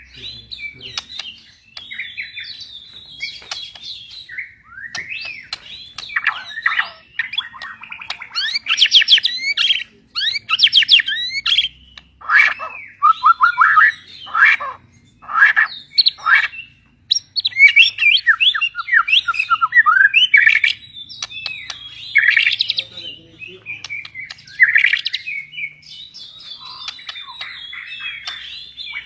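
A songbird singing a long, varied song of chirps, whistled notes and rapid trills, loudest through the middle stretch.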